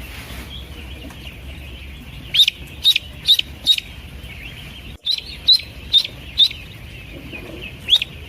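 Newly hatched Pekin ducklings peeping: short high peeps in quick runs of four or five, starting about two seconds in and again just after the middle, over a low steady hum.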